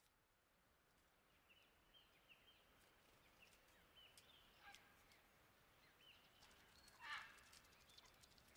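Faint wild bird calls, a scattering of short calls slowly rising in level, with the loudest about seven seconds in.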